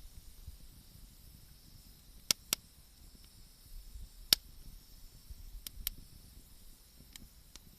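Wood bonfire crackling: sharp, irregular pops from the burning wood, two close together a little past two seconds in and the loudest just after four seconds, over a faint steady hiss.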